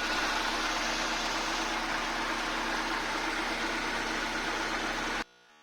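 Nissan Tsuru III's engine running steadily at idle, cutting in and out abruptly.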